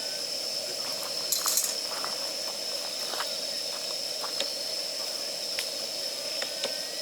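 Wood fire of damp firewood burning, with scattered sharp crackles and pops over a steady hiss; a cluster of louder pops comes about a second and a half in.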